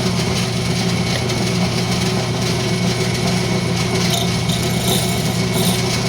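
Wood lathe running at steady speed with a rosewood blank spinning: an even motor hum with a low, steady tone.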